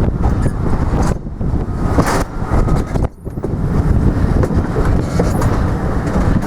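A train running past on the line, a continuous heavy rumble that briefly dips about three seconds in.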